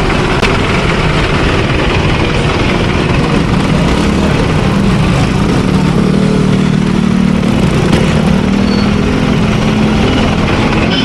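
Street traffic with vehicle engines running close by; a low engine hum grows stronger about halfway through, then fades near the end.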